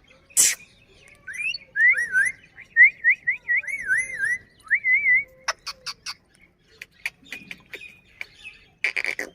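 Ring-necked parakeet whistling a quick run of wavering, warbling notes, opening with a short harsh squawk. A few sharp clicks follow, and a short harsh burst comes near the end.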